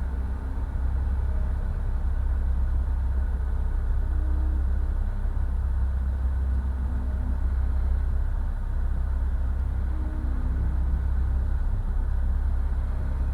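Steady low hum, a constant background rumble with no clear events in it.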